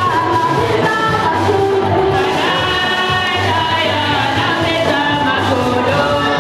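Congregational gospel singing with a steady instrumental beat, the voices holding long sung notes.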